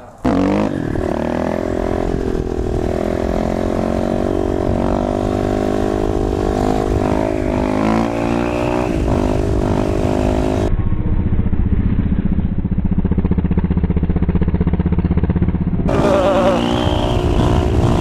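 Single-cylinder dirt bike engine running while riding, revs rising and falling. About eleven seconds in, the sound turns muffled and steadier for about five seconds, then clears again.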